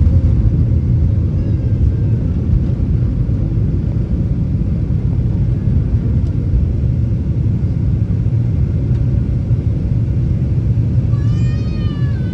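Steady low rumble of a Boeing 737-800's CFM56-7B jet engines and airflow, heard inside the passenger cabin. Near the end a short high-pitched cry rises and falls over it.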